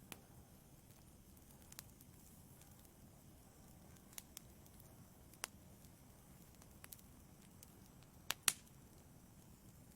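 Wood fire burning in a fireplace, crackling faintly: scattered sharp pops and snaps over a low steady hiss, the two loudest pops coming close together near the end.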